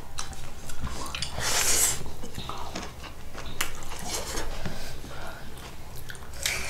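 Mealtime eating sounds: cutlery and dishes clinking in scattered sharp clicks, with a longer rushing noise about a second and a half in.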